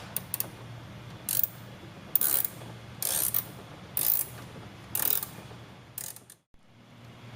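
Socket ratchet clicking in short runs, six strokes about a second apart, as the battery hold-down bracket bolt is worked loose; the sound cuts off abruptly near the end.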